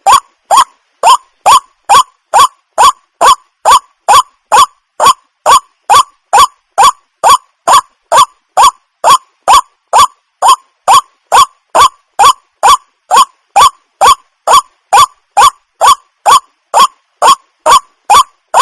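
Waterhen calling: short, loud calls repeated at a steady pace of about two and a half a second, each note sliding quickly upward in pitch.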